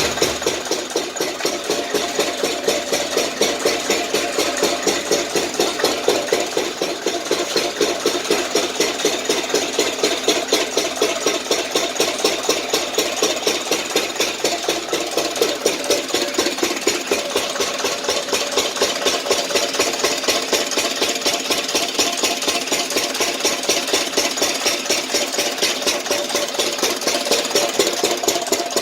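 Stationary engine driving a borewell irrigation pump, running steadily with a rapid, even beat.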